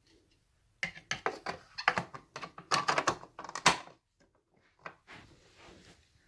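A rapid, irregular clatter of clicks and knocks for about three seconds, like hard plastic parts being handled, followed by softer rustling and scraping. No motor is running.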